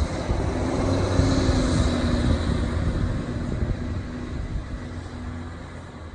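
Garbage truck engine running as the truck drives away, a low rumble that grows for a second or two and then fades steadily.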